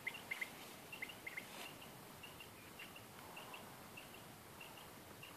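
Faint, high double chirps of a small bird, repeating about every half second, over a steady background hiss.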